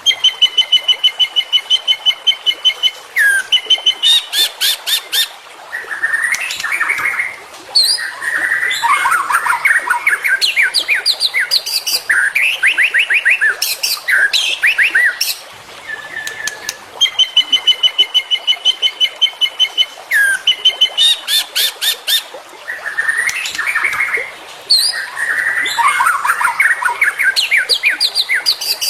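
White-rumped shama (murai batu) song with mimicked fill-in phrases: a high steady trill, fast rattling runs and whistled glides in loud, unbroken succession. The same sequence of phrases repeats about every 17 seconds, as a looped tutor recording.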